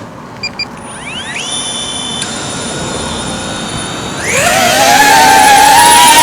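DJI Avata 2 FPV drone starting up: two short electronic beeps, then its ducted-propeller motors start with a rising whine about a second in and settle into a steady high whine. Around four seconds in the motors spin up much louder to takeoff thrust, a wavering, buzzing propeller hum.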